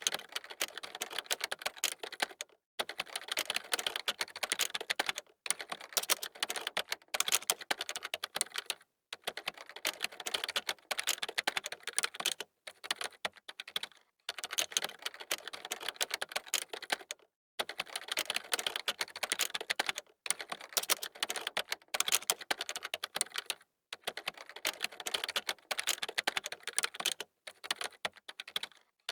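Fast typing on a computer keyboard: rapid key clicks in bursts of one to three seconds, broken by brief pauses.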